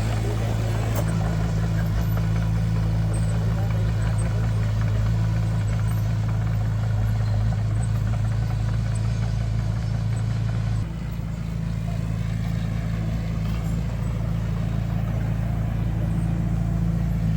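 Heavy construction machine's diesel engine running steadily, with a low drone. About eleven seconds in it drops in level and its note changes, then builds back up.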